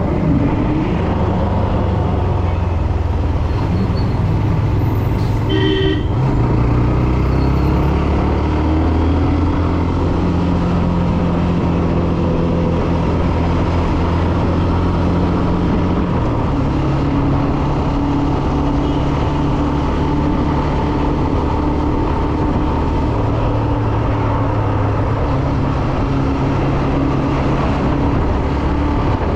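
Hero Xtreme 125R's single-cylinder engine running steadily while riding, with road and wind noise, its engine note changing a few times. A short horn toot sounds about six seconds in.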